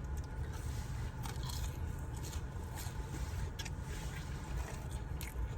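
Biting and chewing crispy seasoned crinkle-cut fries close to the microphone: scattered, irregular crunches.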